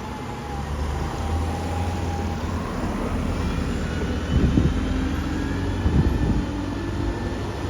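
Road traffic with a vehicle engine running steadily at a low pitch, growing louder about a second in, and two brief knocks near the middle.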